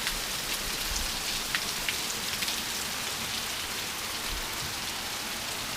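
Light, steady rain falling without wind or thunder: an even hiss with a few scattered drip ticks.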